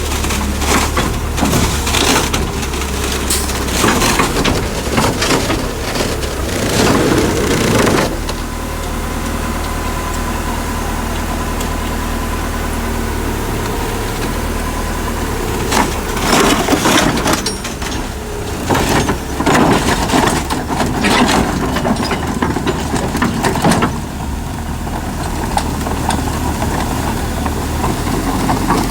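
Diesel engine of earth-moving machinery running steadily, with two long stretches of crunching and cracking as soil and debris are pushed and broken up.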